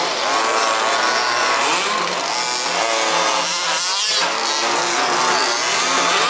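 Several 1/5th-scale RC buggies' small two-stroke petrol engines racing together, their pitch rising and falling as they rev through the track; about four seconds in, one sweeps sharply in pitch as it passes close.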